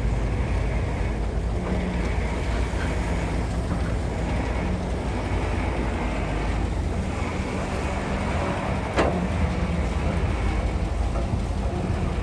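Excavator's diesel engine running steadily while loading dirt into dump trucks, with a single sharp clank about nine seconds in.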